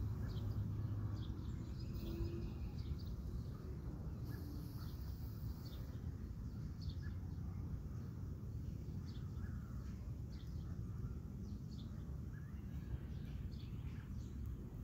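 Outdoor ambience: small birds chirping now and then in short, scattered calls over a steady low rumble.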